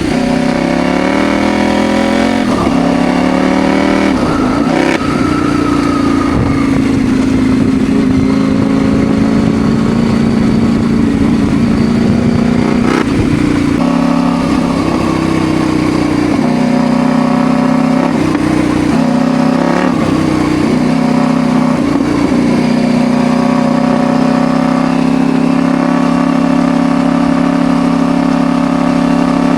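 CFMoto Ibex 800 motorcycle's parallel-twin engine running under way, its note mostly steady, dipping and picking up again several times as the throttle is eased off and opened.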